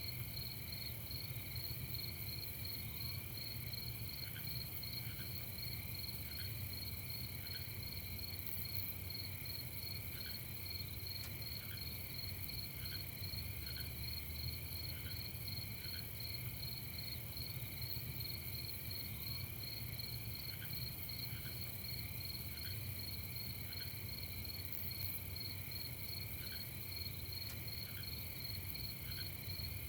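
Crickets chirping in a continuous night chorus, a steady high trill, with short lower chirps scattered irregularly about once a second and a low steady rumble underneath.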